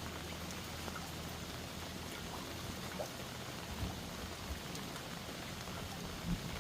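Steady rain, an even hiss with scattered faint drop ticks and a low rumble beneath.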